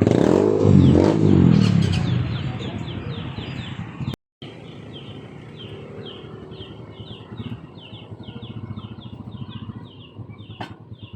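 A motor vehicle's engine passing close, loudest in the first two seconds and then fading. Street background follows, with repeated short high chirps about twice a second.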